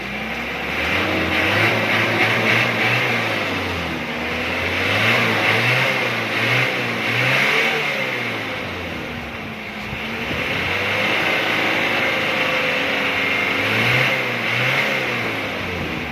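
Mitsubishi Adventure diesel engine revved hard, its pitch climbing and falling in about three long surges. It is being run up to test for exhaust smoke after an anti-smoke oil additive.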